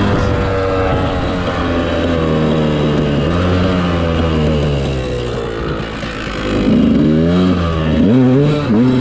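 Dirt bike engine running under load in soft, wet sand, its pitch falling and rising with the throttle, then several quick revs with short drops between them in the second half.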